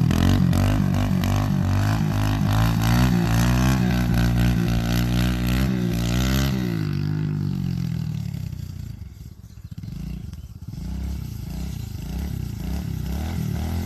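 Kawasaki KLX110 pit bike engine held at high revs for about six seconds, its pitch wavering up and down. The throttle then closes, the note drops away, and the engine settles to a lower, uneven running note.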